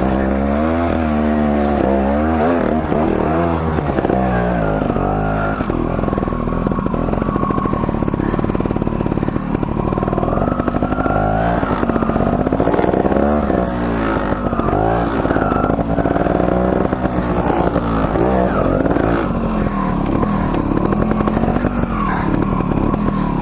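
Two-stroke trials motorcycle engine revving up and down in quick, repeated throttle changes while being ridden over a trail section.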